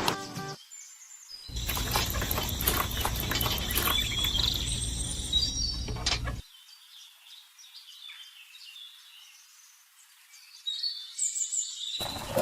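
Birds chirping over outdoor background noise. The noise is louder for the first half, then drops away, leaving faint high chirps before it swells again near the end.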